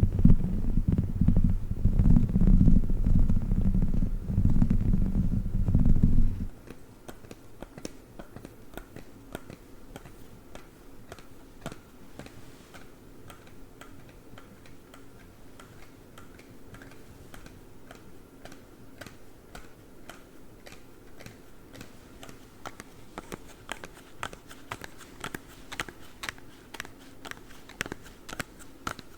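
Close-miked handling of a dog chicken toy, a loud low rumbling that stops suddenly about six seconds in. Then claw gloves tapping and clicking in quick light strokes, growing busier and louder toward the end.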